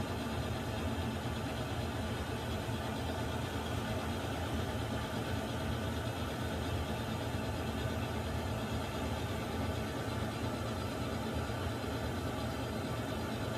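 Water heater running with a steady, unchanging noise, strongest in the low range, with a faint hum.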